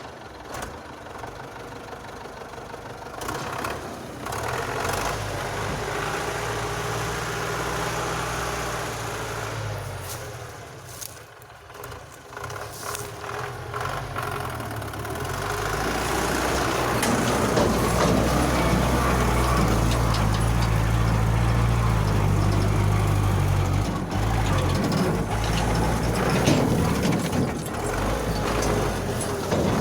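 GAZ-66 truck's V8 petrol engine working under load on a steep, wet, snowy slope. It dips briefly about ten seconds in, then runs louder and steady for the second half as the truck tries the climb and fails to get up.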